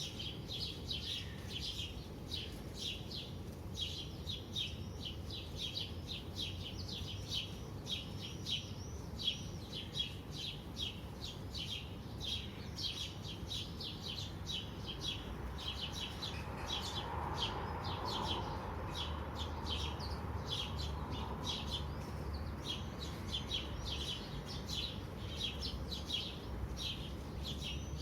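A chorus of many small birds chirping rapidly and continuously, the calls overlapping several to the second, over a low steady background rumble.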